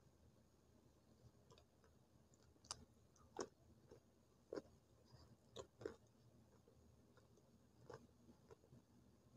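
Close-miked chewing of crunchy slate sticks: a few sharp, scattered crunches, the loudest in the middle, over near silence.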